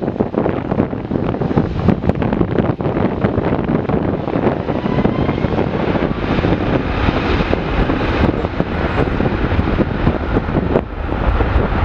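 Jet airliner's engines rumbling steadily as it passes, with a faint rising whine in the middle, under wind buffeting on the microphone.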